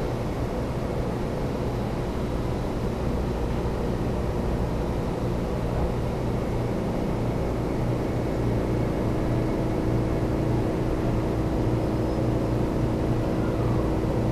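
Cabin noise inside a JR 300 series Shinkansen car: a steady low rumble as the train slows into a station, with a steady hum coming in about halfway through.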